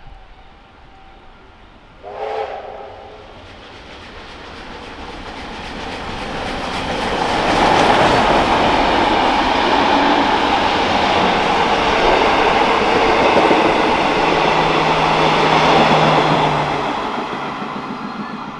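Diesel-hauled freight train giving a short horn blast about two seconds in, then passing close by. The rush of its wheels and locomotives builds to loud, holds, and fades near the end.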